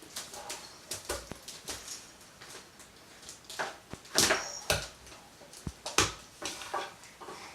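A baby handling a basket: irregular rustling, crackling and knocking, with the loudest knocks about four and six seconds in, mixed with the baby's small vocal sounds.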